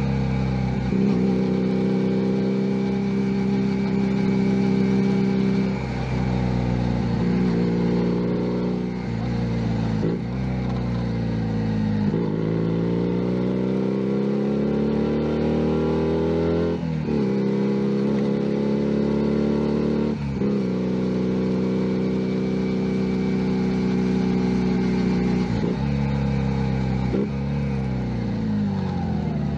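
Junak M11 Cafe 125cc motorcycle engine under way, pulling at steady revs with several breaks where the pitch shifts between gears. About halfway through the revs climb steadily, then fall away near the end as the bike slows.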